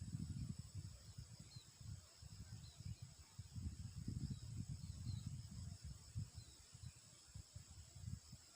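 Outdoor ambience: uneven low wind rumble on the microphone over a steady high insect drone, with a few faint short chirps.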